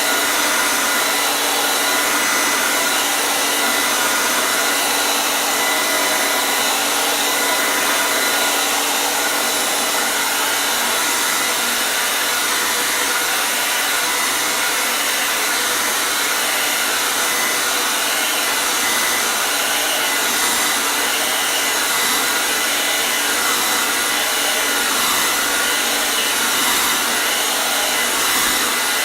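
Hair dryer running continuously, a steady airy rush with a faint whine from its motor and fan, kept unchanged for use as white noise.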